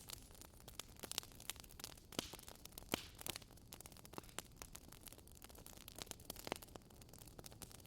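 Fireplace fire crackling: irregular small pops and snaps over a soft, steady hiss, with a sharper pop about three seconds in and another near six and a half seconds.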